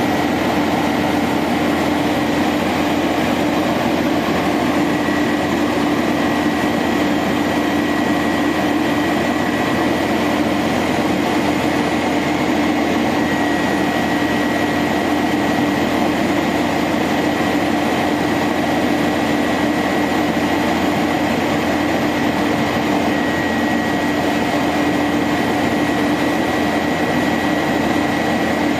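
International 4900 bucket truck's diesel engine running steadily, with a constant hum and a thin high whine over it.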